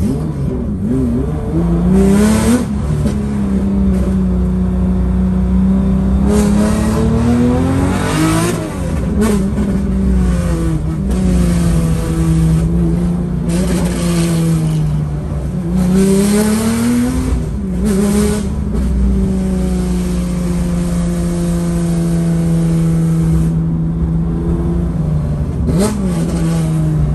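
Tuned 3.8-litre air-cooled flat-six of a Porsche 993, heard from inside the cabin while driving uphill. The revs climb and drop several times with the throttle, with long stretches held steady between.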